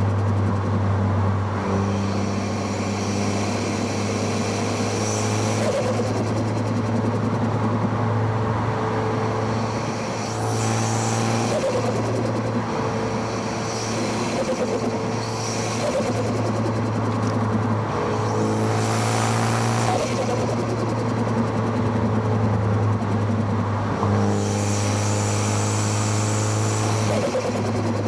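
Car engine heard close at the intake and exhaust while driving, revs climbing in several pulls and dropping back between them, with bursts of rushing hiss on the pulls.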